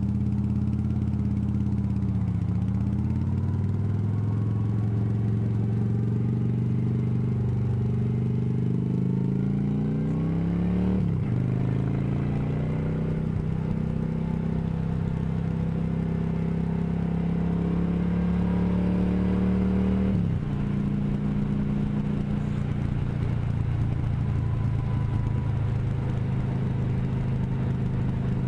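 Motorcycle engine accelerating through the gears. Its pitch climbs steadily, drops sharply about a third of the way in at an upshift, climbs again, drops at a second shift about two-thirds in, then holds steady at cruising speed.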